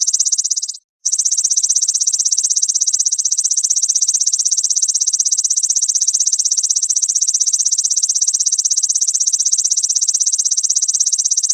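Grasshopper's call: a continuous high, rapidly pulsing buzz. It breaks off briefly about a second in and then resumes unchanged, as a looped recording does.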